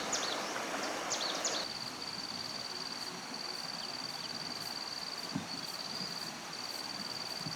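An insect trilling in one steady high note, in long stretches with short breaks. In the first second and a half, quick repeated high chirps and a hiss run alongside, then both stop.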